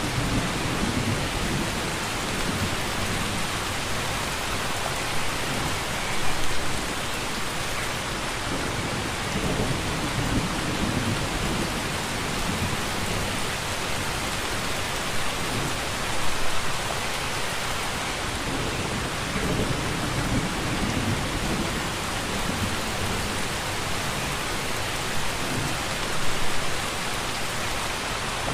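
Steady heavy rainfall, with low rumbles of thunder rolling in and out underneath. Three brief louder surges come about ten seconds apart.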